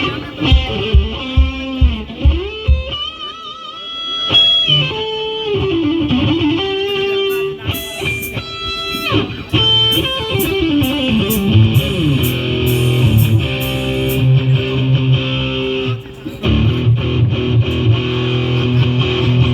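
Electric guitar played loud through a stage PA in a sound check: lead lines with string bends and vibrato, then sustained chords. Low thumps in the first couple of seconds, and a brief drop-out about sixteen seconds in.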